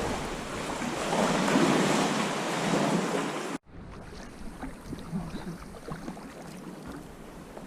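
Sea waves washing, with wind buffeting the microphone, loud for the first three and a half seconds; then an abrupt cut to a much quieter stretch of lapping water.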